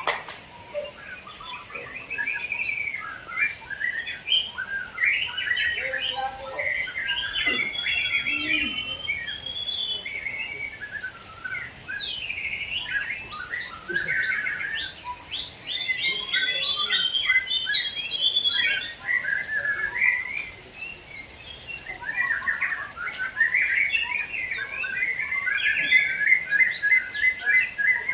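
Caged songbirds singing continuously, several at once: an overlapping run of varied whistles, trills and chatter, ending in a fast, rapidly repeated trill.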